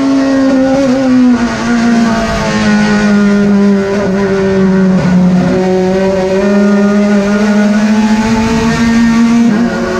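Turismo Pista Clase 2 race car engine running hard at high revs. Its pitch steps down at gear changes, a little after a second in and about halfway through, and climbs again between them.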